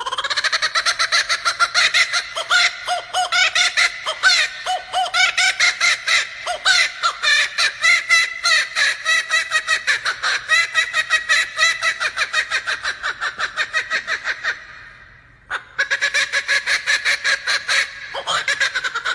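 Laughing kookaburra giving its laughing call: a loud, rapid run of repeated notes that breaks off briefly about fifteen seconds in, then starts again.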